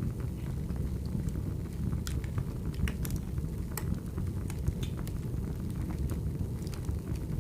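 Wood fire burning: a steady low rumble of flames with scattered sharp crackles and pops from the burning logs at irregular moments.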